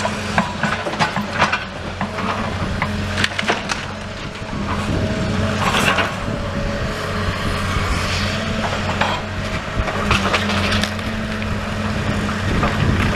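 Demolition excavator's diesel engine running steadily, with repeated knocks and clatter of bricks and rubble being scooped and dropped.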